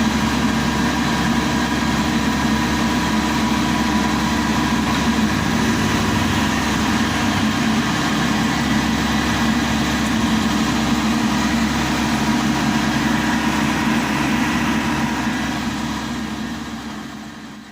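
Maxxi Bimo Evo Xtreme combine harvester's engine running steadily, with a steady whine above the engine note; the sound fades out near the end.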